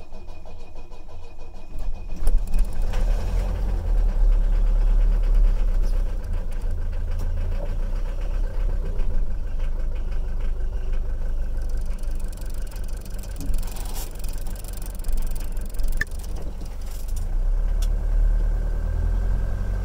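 Mercedes-Benz 240D four-cylinder diesel engine running while still cold, just after being started to warm up on a drive. It grows louder about two seconds in.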